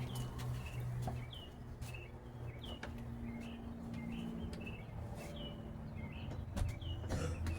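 A bird chirping over and over, short falling chirps roughly every two-thirds of a second, over a steady low hum.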